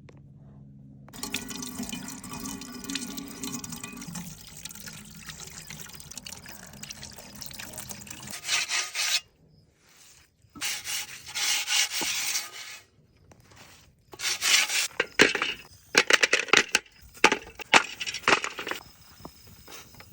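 Water pouring and splashing for the first part, then a run of sharp knocks and clatter through the second half.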